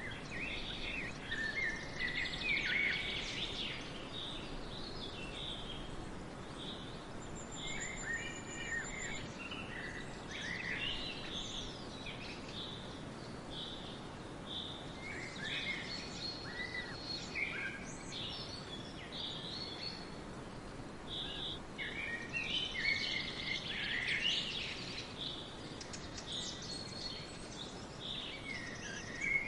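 Several songbirds singing and chirping over a steady background hiss, with short repeated notes and warbled phrases all through.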